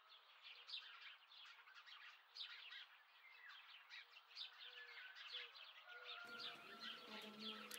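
Faint birdsong: many short, high chirps, with a low short call repeated about twice a second. About six seconds in, a faint steady hum and a held tone come in.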